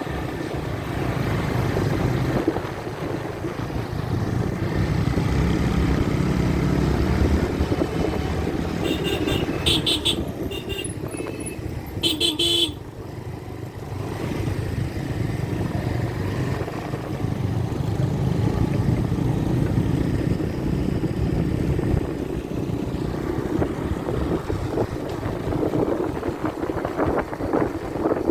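Motorcycle riding along a road, its engine and wind rumbling steadily, with a horn beeping several short times about a third of the way in.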